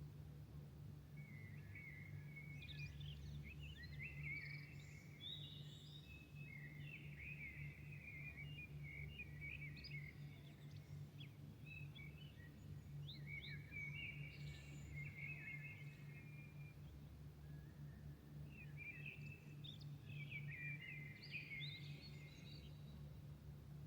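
Songbirds singing faintly in bouts of quick chirps and trills, with a short lull partway through, over a steady low hum.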